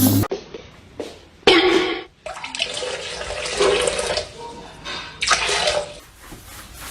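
Water running or splashing, in several short pieces that start and stop abruptly.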